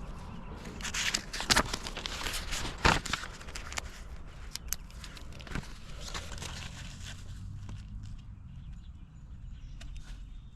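Crunching footsteps or scuffing on dirt and gravel, busiest in the first few seconds, over the low steady running of an idling machine engine.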